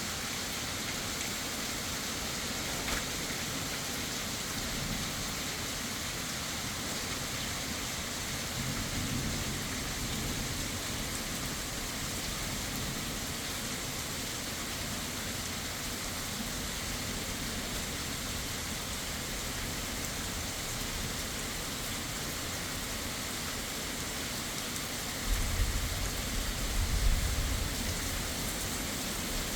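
Heavy rain falling steadily, with a low rumble of thunder rolling in near the end.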